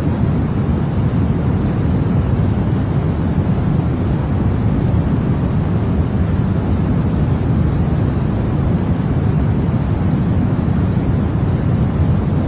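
Continuous white noise for infant sleep: an even, unbroken rushing hiss that is deep and full at the bottom and fades toward the top, with no change or pattern.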